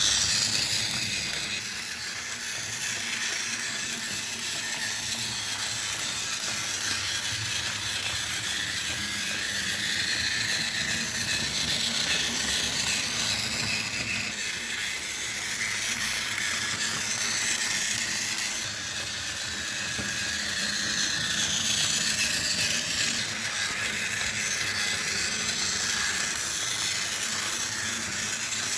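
Battery-powered Tomy Plarail Dennis toy diesel engine running on plastic track: a steady whir from its small motor and gears, with wheel rattle. It grows a little louder and softer as it goes round.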